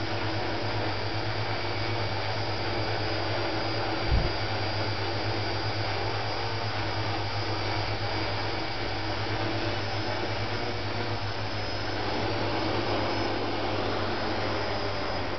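Homemade quadcopter's four electric motors and rotors running steadily, a whirring noise with a low hum, with a single short thump about four seconds in.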